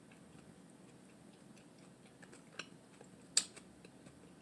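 Quiet eating sounds while chewing a lettuce wrap: faint scattered ticks, a sharper click about two and a half seconds in, and a louder single click about a second later.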